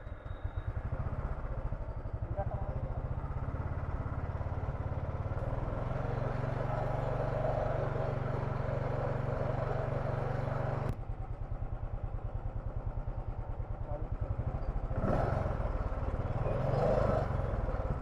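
Royal Enfield Thunderbird 500's single-cylinder engine idling with a steady, even thump.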